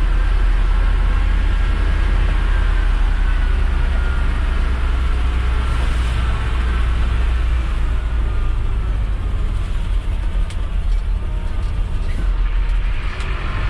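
Mercedes-Benz Atego dump truck's diesel engine pulling steadily under load, the truck loaded and driving in low range, a deep steady drone with a faint whine above it. The drone eases a little about halfway through.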